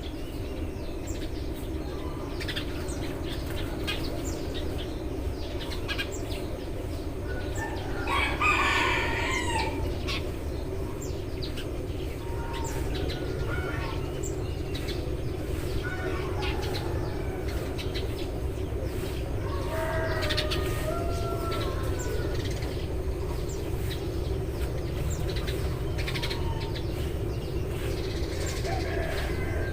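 Eurasian tree sparrows chirping repeatedly over a steady low background hum, with a longer, louder call about eight seconds in and another around twenty seconds.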